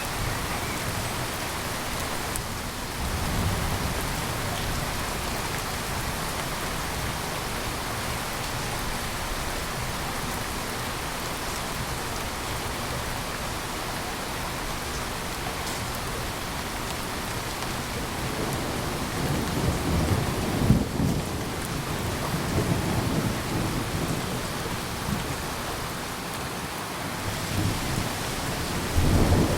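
Steady rain falling, with thunder rumbling low underneath: a brief rumble a few seconds in, a longer roll about two-thirds of the way through, and another starting at the end.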